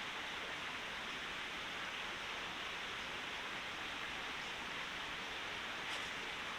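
Steady, even rushing of water with no distinct events.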